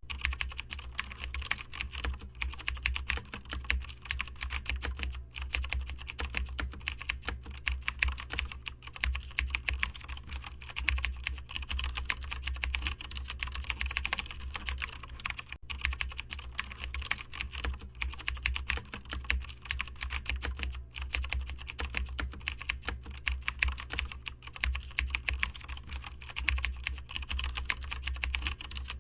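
Continuous fast typing on a computer keyboard: a dense run of key clicks with a few brief pauses, over a low steady hum.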